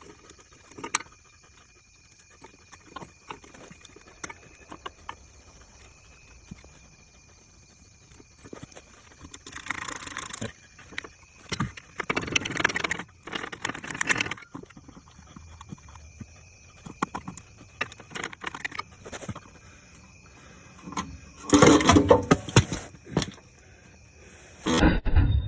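Hand tools working the bolts of a Ford Bronco's starter during its removal: scattered metal clicks and clinks and several spells of rapid ratchet-like clicking, the loudest about three quarters of the way through.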